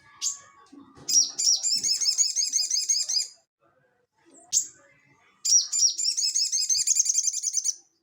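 Sogon (sogok ontong) songbird singing: a sharp single call, then a fast trill of rapidly repeated high notes lasting about two seconds. This pattern repeats once more: another single call, then a second trill of similar length.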